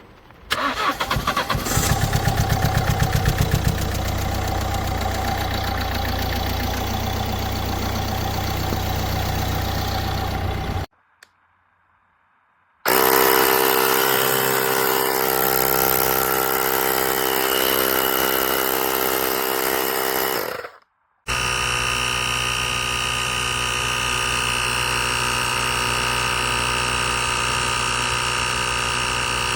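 A diesel engine that has sat for about six months cranks over and catches about half a second in, jump-started from a battery booster pack, then runs steadily. After short silent breaks, a steady machine sound runs on in two further stretches.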